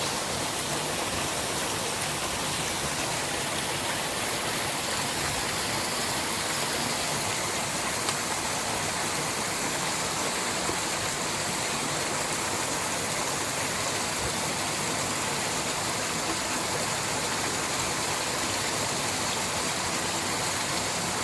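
Small waterfall on a woodland stream: water pouring and splashing in a steady rush.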